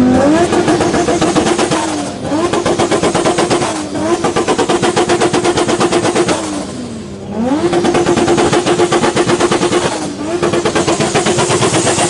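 Engine revved hard about five times in a row, each time climbing quickly and holding flat against the rev limiter with a rapid stuttering pulse before the throttle is let off briefly.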